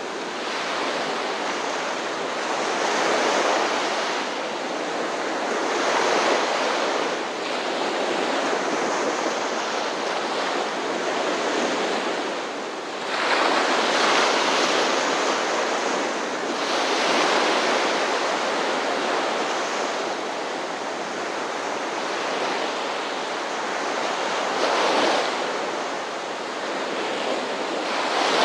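Ocean surf: waves breaking and washing in as a steady rush that swells every few seconds, the biggest surge about halfway through.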